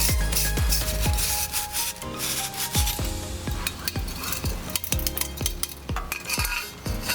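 Stainless steel wood-stove parts being scrubbed with a stiff brush: a run of irregular rasping strokes with the odd metallic clink.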